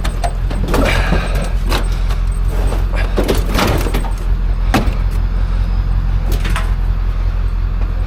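A vehicle engine running steadily, with several sharp knocks and rattles scattered over it.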